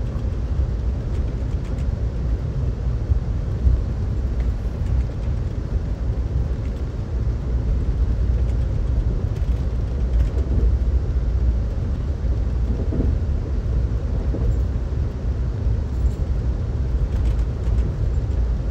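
Steady low rumble of a moving Amtrak California Zephyr passenger car heard from inside the car: the wheels on the rails and the car body running at speed.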